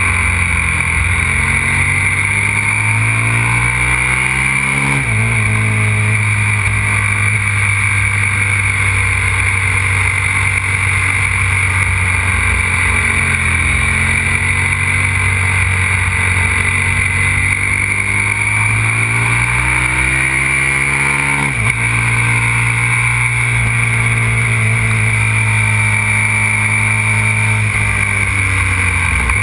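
Aprilia RXV 550 supermoto's V-twin engine running hard on track, its pitch wandering and twice climbing then dropping sharply, about five seconds in and again past twenty seconds. A steady rushing noise runs underneath.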